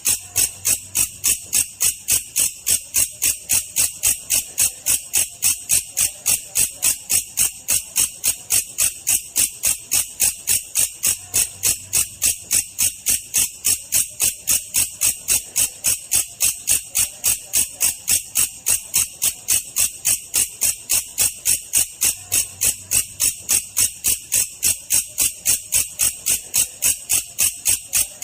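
Belalang kecek insect call played slowed down: an unbroken, evenly spaced run of short, high, shrill chirps at about three a second.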